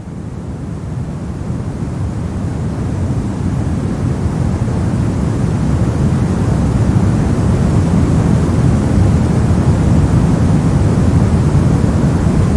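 Artificial white-noise track: a steady, even rush of noise with more weight in the low end than the highs. It fades in over the first several seconds, then holds level.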